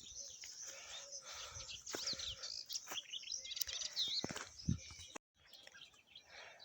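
Farmyard birds calling, with a few short, high chirps between about two and four and a half seconds in; chickens are cackling around the yard.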